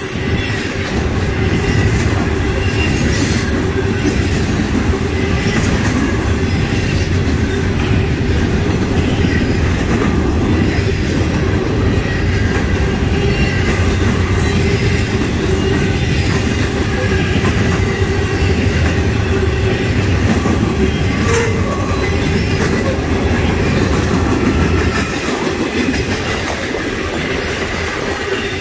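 Freight cars of a Norfolk Southern train, intermodal cars and loaded coal hoppers, rolling steadily past close by. The wheels rumble on the rail with scattered clicks and a thin, steady wheel squeal.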